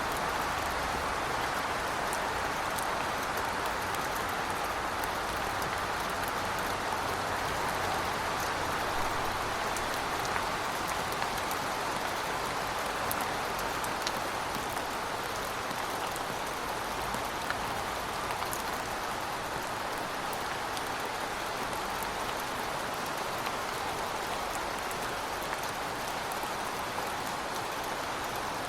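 Heavy rain falling steadily: a dense, even hiss with scattered sharp ticks of individual drops striking hard surfaces.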